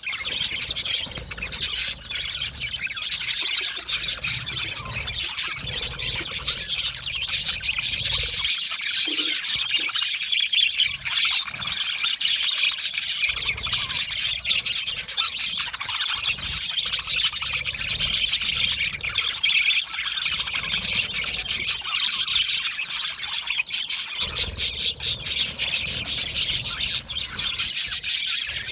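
A flock of budgerigars chirping, whistling and chattering together in a dense, continuous overlap of many voices. A low rumble comes and goes underneath.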